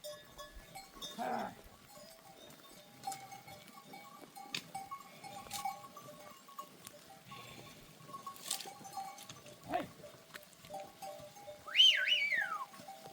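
Goats bleating, a low call about a second in and a loud high wavering bleat near the end, with faint ringing from the herd's neck bells in between.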